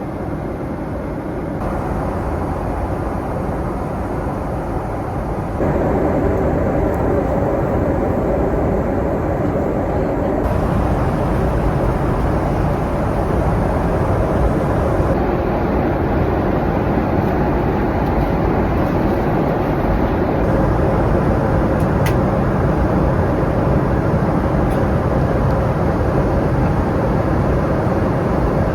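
Jet airliner cabin noise from a Boeing 777-300ER: the steady rumble and rush of the engines and airflow. The level steps up abruptly a few times, louder from about five seconds in.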